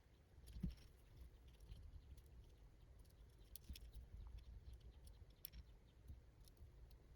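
Faint small clicks and rustles of hands handling a mini FPV quadcopter's parts and wiring, with one soft thump about half a second in.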